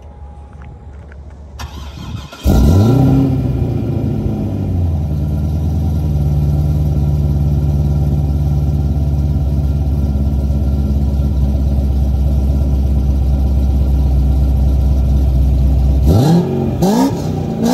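Supercharged V8 of a 2006 Corvette C6, with long-tube headers, no catalytic converters and Flowmaster mufflers, starting up about two and a half seconds in. It flares up and settles into a steady, throaty idle, then is blipped in a couple of quick revs near the end.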